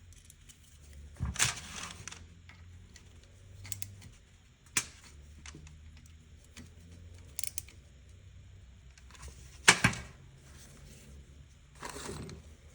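Small metal parts and hand tools being handled on a workbench during carburetor disassembly and cleaning: scattered clicks and clacks, with a couple of short noisy bursts and the loudest knock near the end.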